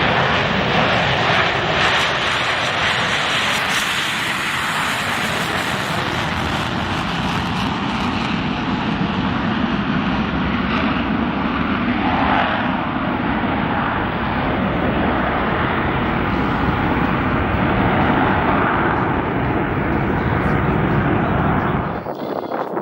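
Jet noise from the two General Electric F414 turbofans of an EA-18G Growler flying its demonstration, loud and continuous, cutting off suddenly near the end.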